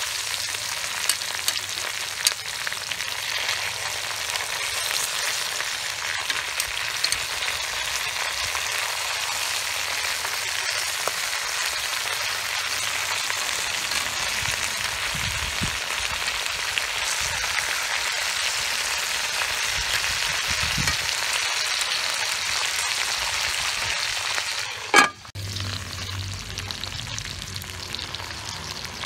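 Fish and banana flower sizzling steadily in a hot aluminium pot, with occasional light clicks of metal tongs and a knife against the fish and pot. About 25 seconds in there is one sudden loud knock and a brief break, then the sizzling goes on a little quieter.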